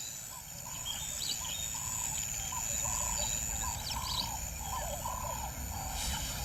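A wild animal calling a steady series of short, arching notes, about two a second, beginning about half a second in, with fainter higher chirps above it.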